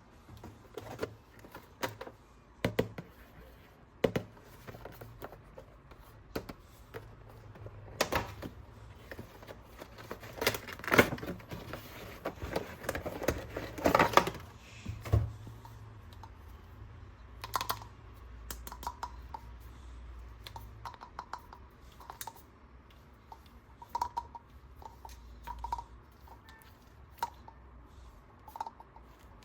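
Hands handling plastic toys and their packaging: scattered clicks and taps, coming thickest about ten to fifteen seconds in.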